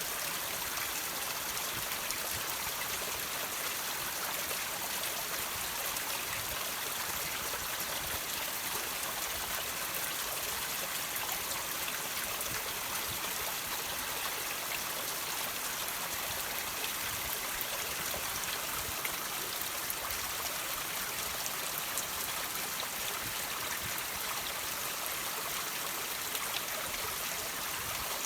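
Water trickling and dripping off rocks: a steady, unbroken hiss of running water, with a few faint drip ticks.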